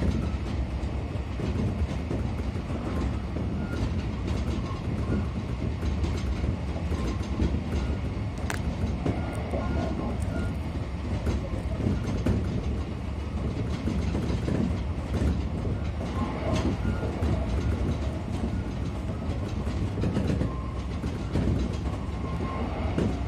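Kintetsu 6432-series electric train running at speed, a steady rumble of wheels on rail with scattered light clicks from the track, heard from inside the car.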